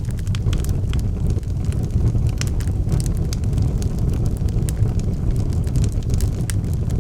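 Wood fire burning in a fireplace: a steady low rumble of the flames with frequent sharp crackles and pops from the burning logs, several a second.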